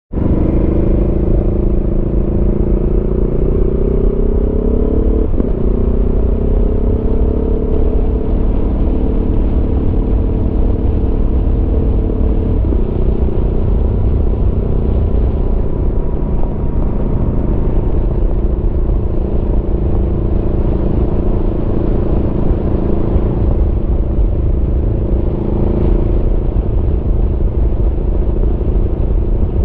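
Aprilia Tuono V4's V4 engine running under way, its pitch climbing as it pulls through the revs. It breaks briefly about five seconds in and again about twelve and a half seconds in as gears change, then holds steady. A steady low rumble sits underneath.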